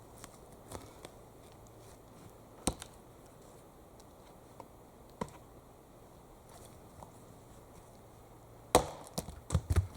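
Axe chopping wood: a few scattered knocks, then a hard strike near the end followed by a quick run of smaller knocks.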